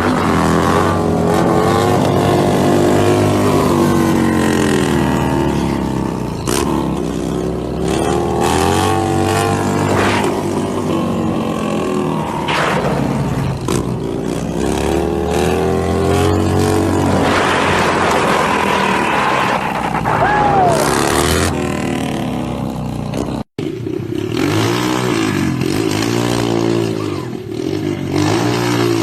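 Motorcycle engine running and revving, its pitch climbing and falling again and again. The sound cuts out for an instant about two thirds of the way through, then the revving goes on.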